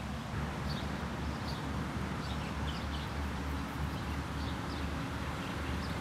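Outdoor ambience: faint, scattered high bird chirps over a steady low rumble.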